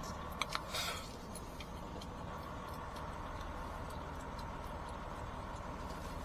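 Semi-truck engine running low and steady while the truck is being backed in. Just under a second in there are two sharp clicks and a short hiss.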